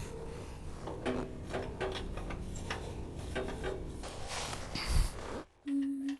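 Steel stoppers and nuts being handled and snugged onto their bolts by hand: light metallic clicks and rubbing, with a louder knock about five seconds in. Near the end the background drops away and a short steady hum starts.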